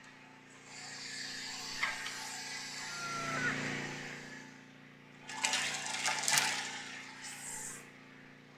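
Water being poured into the sawmill's blade-lubrication reservoir, a hissing pour that rises slightly in pitch as it fills, followed by a louder spell of splashing and handling noise.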